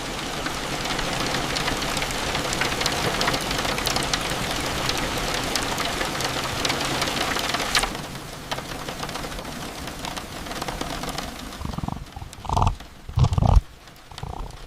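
Steady rain falling, an even hiss with scattered drop ticks, turning quieter about eight seconds in; near the end come two short, louder sounds.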